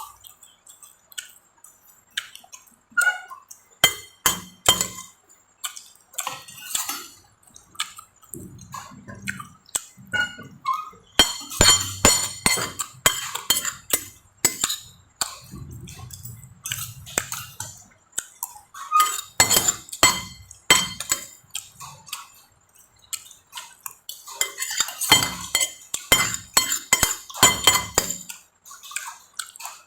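Eating utensils clinking and scraping against a plate or bowl in many short, irregular strikes, with bunched-up runs of clinks partway through and again near the end, as rice is scooped up to eat.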